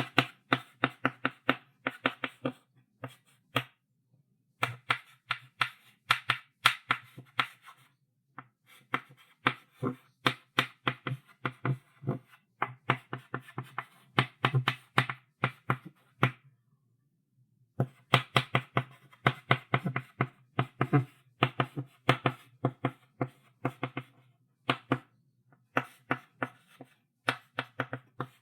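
Chalk writing on a chalkboard: quick runs of sharp taps and short scratchy strokes, several a second, broken by brief pauses, with a longer pause of about a second and a half in the middle.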